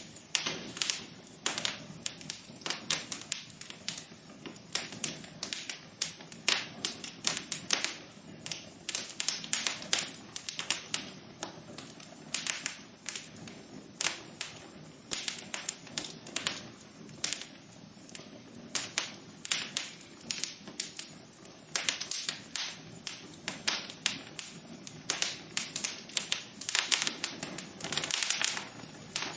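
Wood fire in a fireplace crackling: dense, irregular sharp pops and snaps over a soft steady hiss of the burning.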